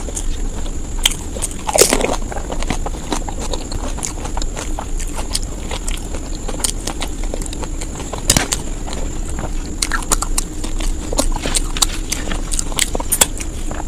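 A person eating fast, with crunching bites and chewing clicks scattered throughout, over a steady background hum.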